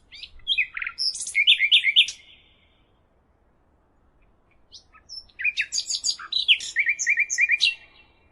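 A songbird singing two phrases a few seconds apart, each a quick run of varied high notes ending in a short string of repeated notes.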